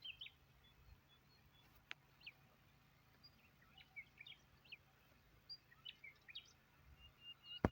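Faint, scattered bird chirps and short calls over quiet outdoor background, with a single sharp click about two seconds in.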